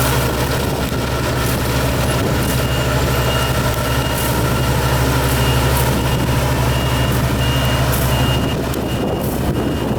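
Yanmar combine harvester's engine running steadily, with a high warning beep repeating about once a second. The low drone eases a little near the end.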